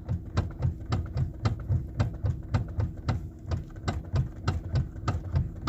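Steering column of a Lexus ES 350 knocking repeatedly, about four short knocks a second, over a steady low hum. The noise comes from a broken rubber coupler insert in the electric power steering column.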